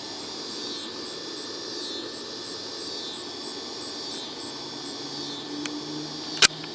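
Steady rushing fan noise of a running window air conditioner, heard from outdoors. Over it, a chorus of summer insects pulses in a high, even rhythm. A single sharp click comes near the end.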